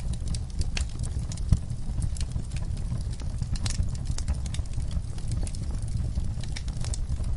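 Wood logs burning in a fireplace, crackling with irregular sharp pops and snaps over the low rumble of the flames.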